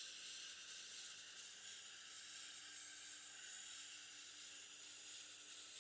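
80-grit diamond plate held against the spinning Tormek SG-250 grinding wheel, a steady gritty hiss as it raises the stone's grains to make the wheel coarser, with the machine's low hum underneath.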